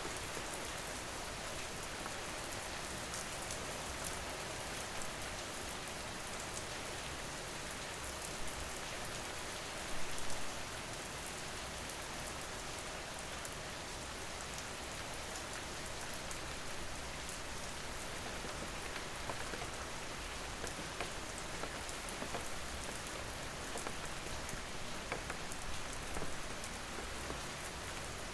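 Steady rain, a constant hiss with many small drop clicks scattered through it. There is a short louder burst about ten seconds in.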